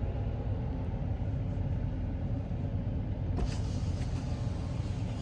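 Pickup truck's engine running with a steady low rumble.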